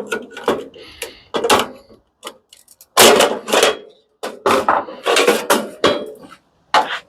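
Metal machine parts clanking and clattering as they are handled and set down, about ten knocks in irregular succession, a few leaving a brief thin metallic ring.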